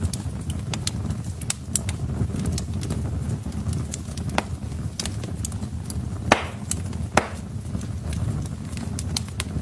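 Wood fire burning in a fireplace: steady low rumble of the flames with frequent small crackles, and two louder pops about six and seven seconds in.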